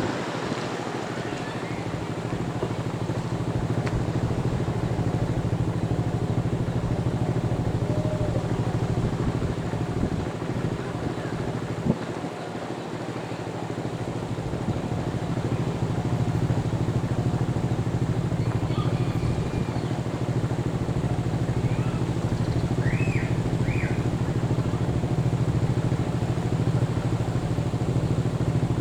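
Steady low engine rumble, continuous throughout, dipping briefly about midway, with a few faint short high chirps in the second half.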